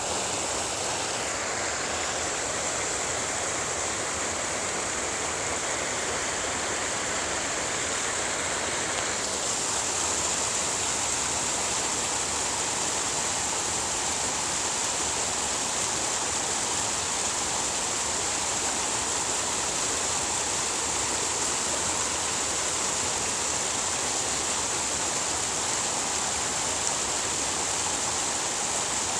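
Steady rush of flowing water. Its hiss gets brighter about nine seconds in, then holds steady.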